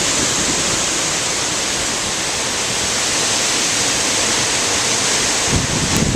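Strong gusty wind rushing steadily as a loud hiss, with wind buffeting the microphone again about five and a half seconds in.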